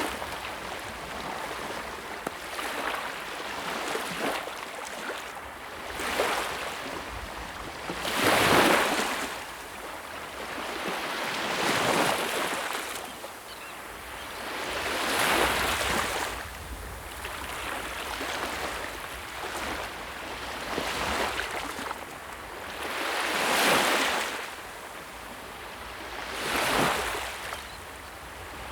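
Sea waves surging in one after another every few seconds, each a rush of surf noise that swells and fades. The biggest waves come about a third of the way in and again near the end.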